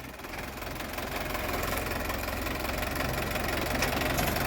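Sonalika tractor's diesel engine running with a dense, even firing beat, getting steadily louder as it is given more speed.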